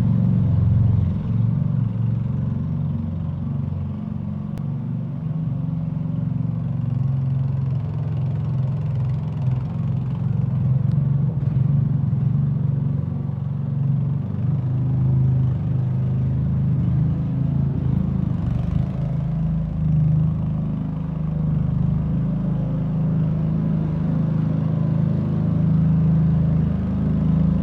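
Engine of a Muck-Truck mini dumper running steadily while it hauls a load of fill, its level rising and falling a little.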